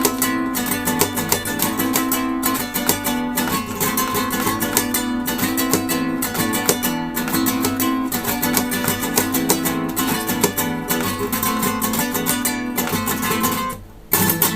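Acoustic guitar played, picked notes and chords at a steady pace in a flamenco-like style; the playing drops away near the end and a single loud last chord is struck just before the close.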